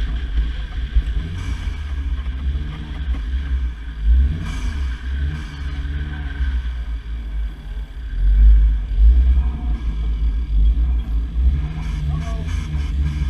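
Ford Fiesta ST rally car's engine heard from the cabin during a rallycross run, its revs rising and falling, over a heavy low rumble with louder surges twice.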